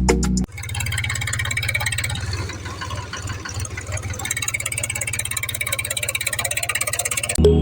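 Small electric motor of a homemade toy tractor running with a steady buzz made of fine rapid pulses and a low hum. Background music cuts out about half a second in and comes back near the end.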